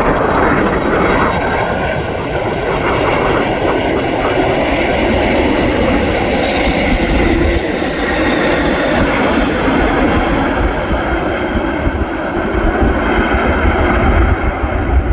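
Jet engine noise of a landing Boeing 747-8 freighter with its four GEnx turbofans, loud and steady; after about ten seconds the high hiss fades as the aircraft moves away, leaving a low rumble.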